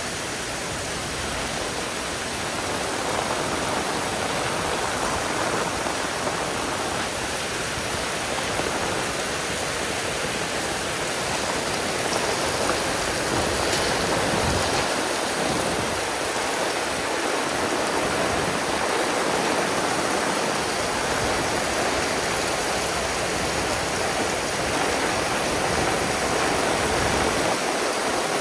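Heavy rain pouring down steadily, a dense unbroken hiss of water.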